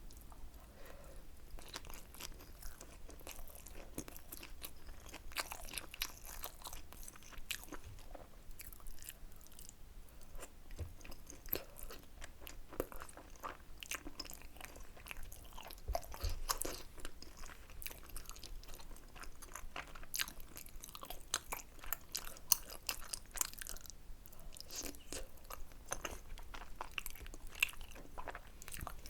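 Close-miked chewing of tteokbokki, a steady run of many small crunches and mouth clicks.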